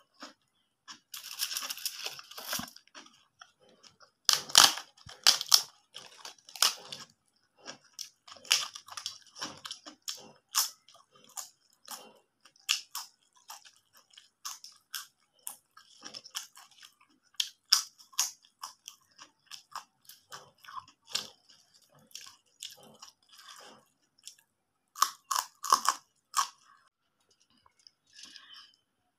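Close-miked eating: crisp papad crunched and chewed along with hand-mixed rice, in irregular sharp crunches with short pauses between bites. The loudest crunches come about four seconds in and again near the end.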